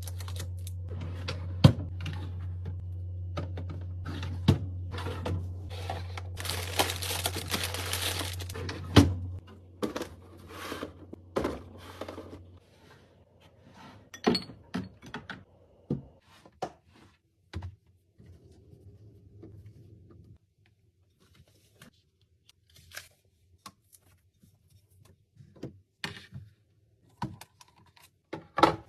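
Food containers and packaging handled while restocking a refrigerator: scattered knocks and thunks as items are set down, and a couple of seconds of plastic tearing and crinkling about seven seconds in. A low steady hum runs underneath for the first dozen seconds, then stops.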